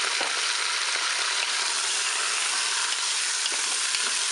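Smoked pork slices and chopped onion sizzling steadily in hot oil in a Cookeo multicooker's bowl on its browning setting. A few light knocks come from a wooden spatula stirring them.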